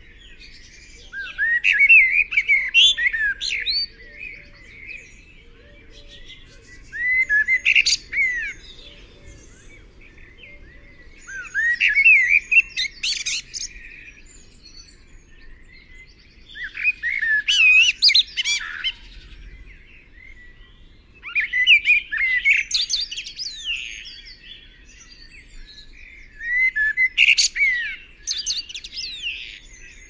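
A bird singing in repeated bursts of quick chirping, whistled notes that slide up and down, six phrases about five seconds apart.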